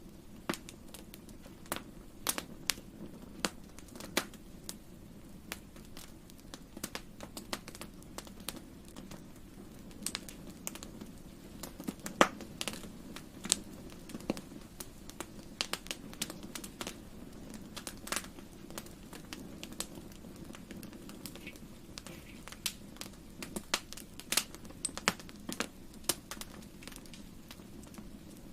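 Fireplace fire crackling: irregular sharp snaps and pops over a steady low rumble, the loudest pop about twelve seconds in.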